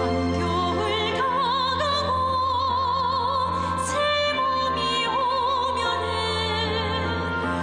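A song playing: a singer holding long notes with strong vibrato over a sustained instrumental accompaniment.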